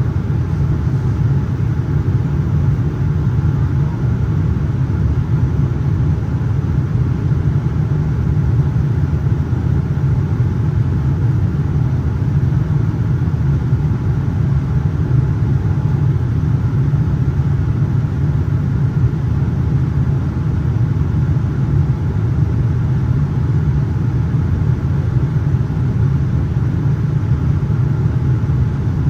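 Steady low rumble of a Boeing 787-9 airliner's cabin in flight: engine and airflow noise heard from inside the passenger cabin, unchanging throughout.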